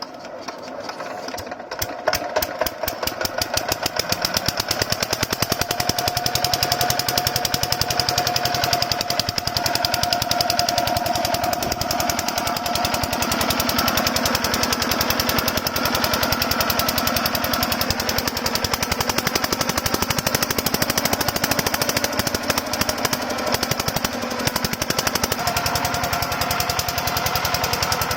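Small 5 HP diesel engine driving a water pump, starting up: its firing beats quicken over the first few seconds, then it runs steadily with a fast, even knock.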